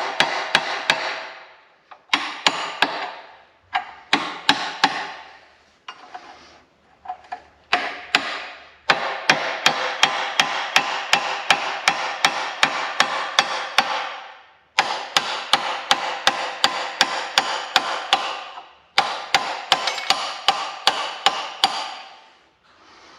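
Hammer blows on the metal of a Karrier K6 spare engine's bottom end during strip-down, knocking free a part that is reluctant to move. The strikes come in runs at about three a second, with ringing metal after each and a few short pauses.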